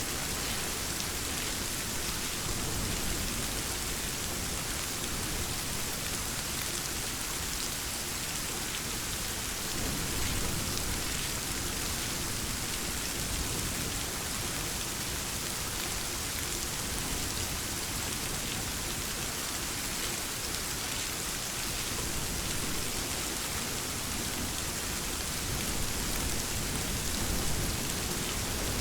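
Steady rain falling in a dense, even hiss, with low rumbles of distant thunder swelling about ten seconds in and again near the end.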